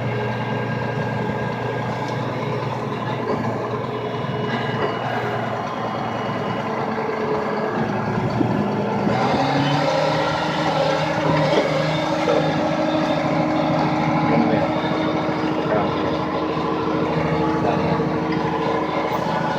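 Case IH 7220 tractor's diesel engine running steadily under way. Its note rises about halfway through and holds higher.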